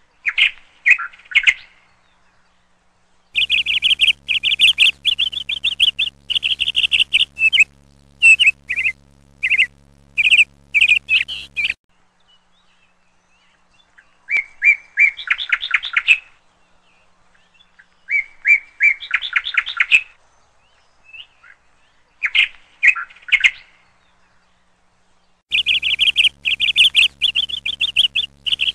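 Small birds chirping in quick repeated trills, coming in bursts separated by short silences, with a faint steady low hum under the longer bursts. The same stretch of chirping comes round again near the end, as a looped recording.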